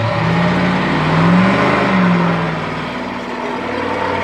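A vehicle engine revving up, peaking about a second and a half in and easing off again, then running on steadily, with loud rushing noise.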